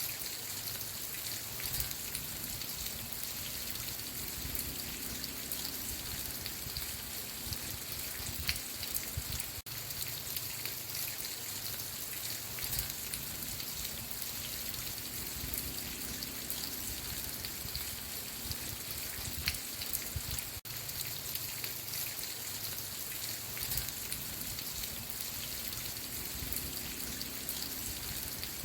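Steady rain falling: an even, dense hiss with scattered individual drop ticks.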